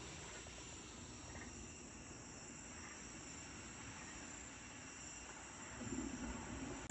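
Faint, steady chorus of night insects such as crickets, with a low background rumble.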